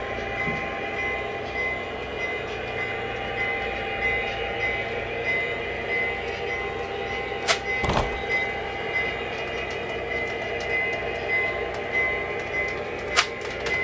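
Model train running on the layout: a steady hum with a low pulsing rumble, broken by a few sharp clicks, two close together near the middle and one near the end.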